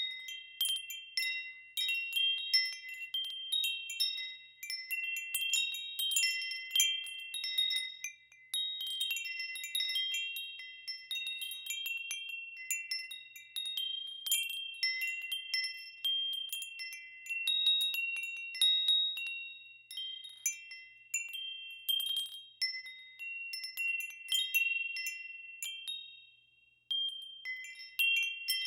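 Wind chimes ringing: a handful of high notes struck irregularly, overlapping and ringing on. There are brief lulls about a third of the way in and near the end.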